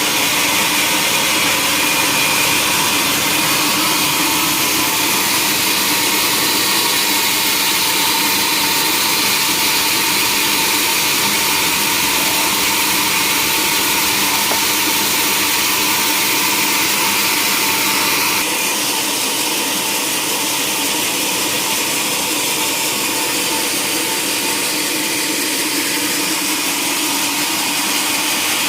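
Sawmill machinery running steadily while sawing a log, a dense mechanical noise. About two-thirds of the way through it changes tone and becomes slightly quieter.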